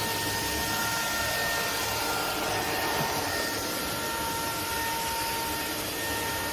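Bulelink cordless stick vacuum running steadily: a constant motor whine over the rush of air.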